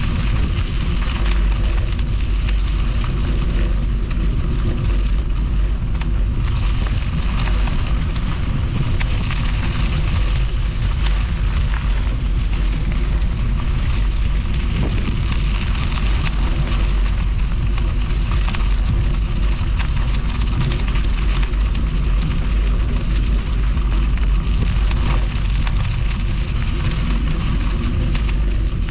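Wind buffeting a bicycle-mounted camera's microphone, a steady low rumble, over the crackling hiss of bike tyres rolling along the canal path.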